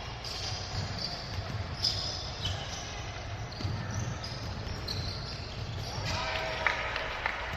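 A basketball being dribbled on a court, repeated thuds at an uneven pace, with short high sneaker squeaks and some voices from players and spectators.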